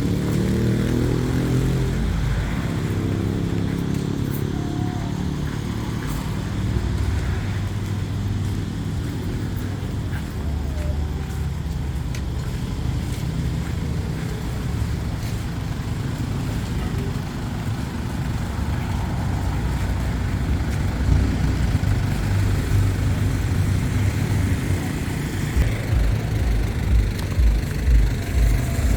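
Motor vehicle engine running with a low rumble that shifts in pitch, with regular low thumps near the end.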